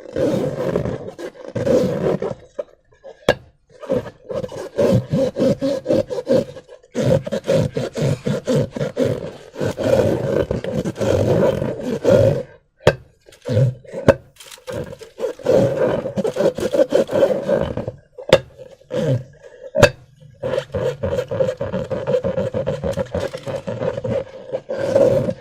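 Hands squishing and stretching slime against rubber balloons: rough, stop-start squelching and rubbing in short stretches, with sharp clicks and snaps between them.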